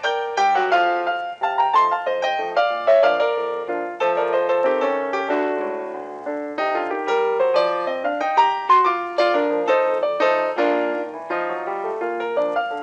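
Lively piano music with many quick notes.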